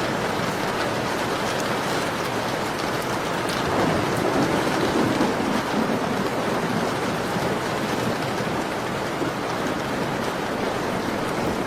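Steady falling rain with faint crackles from a wood fire. About four seconds in, a low swell rises and fades over a couple of seconds.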